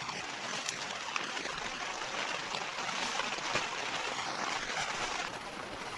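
Heavy rain falling: an even hiss with a few sharper ticks of drops.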